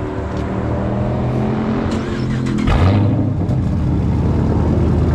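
Dodge Charger R/T's 5.7-litre Hemi V8 running warm through a straight-piped exhaust, idling with a deep, loud exhaust note and blipped once with a sharp rev about two and a half seconds in, then settling back to a slightly higher, steady idle.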